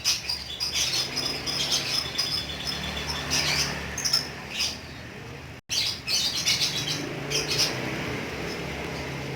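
Lovebird chattering: runs of rapid, high chirps and clicks, the long chatter called 'ngekek', cut by a brief dropout a little past halfway.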